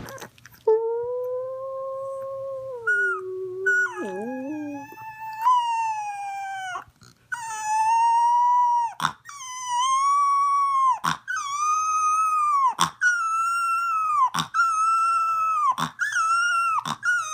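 A dog howling: a run of long, drawn-out howls with short breaks between them. The howls start low and climb clearly higher about five seconds in.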